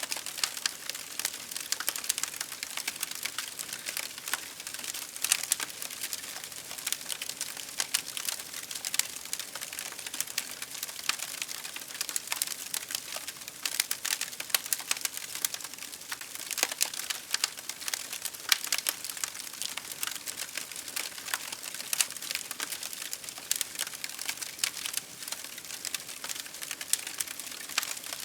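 Wood fire crackling steadily in a fireplace: dense, irregular small pops and snaps over a soft hiss, with occasional louder cracks.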